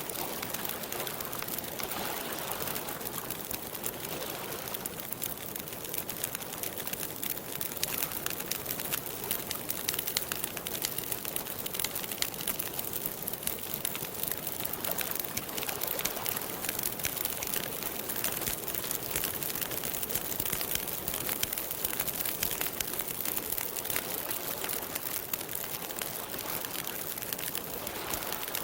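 Campfire burning steadily, its wood crackling with a constant stream of small pops.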